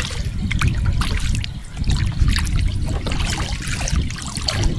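Water splashing and trickling as a paddle strokes through the water, over a steady low rumble.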